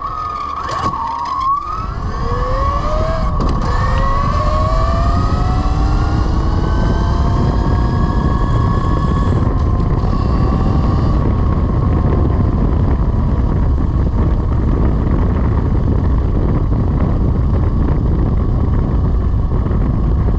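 Velimotors VMX12-F electric motorcycle accelerating hard: its motor whine climbs in pitch several times over the first ten seconds or so. Heavy wind rush on the microphone builds with speed and takes over the rest of the time.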